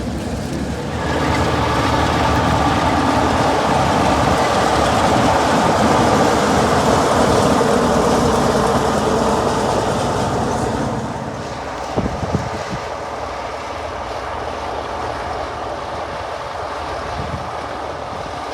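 Diesel-hauled heritage train running on the rails, a steady rolling rumble that grows louder about a second in and eases off after about ten seconds, with a couple of sharp knocks from the track near the twelve-second mark.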